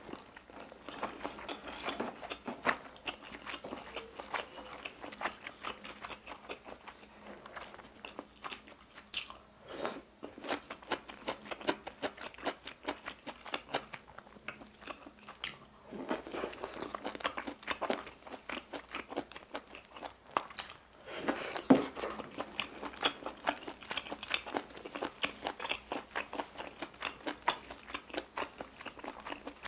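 Close-miked chewing and wet mouth sounds of someone eating spicy stir-fried octopus with glass noodles and rolled omelette: a steady run of small smacks and clicks, louder in a couple of stretches around the middle and about two-thirds of the way through.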